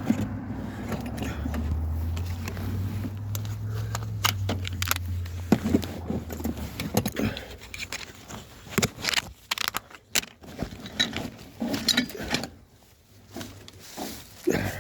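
Small metal plumbing parts and tools clinking and clattering as they are picked through and gathered up, in a string of short knocks. A low steady hum sits underneath for the first half and stops about seven seconds in.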